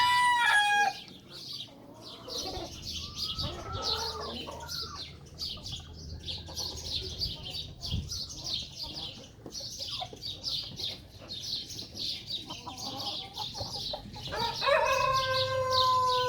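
Backyard chickens: a rooster's crow trails off about a second in, hens cluck now and then, and high-pitched chirping of small birds goes on throughout. Near the end a rooster crows again, a long held call that falls away at the close.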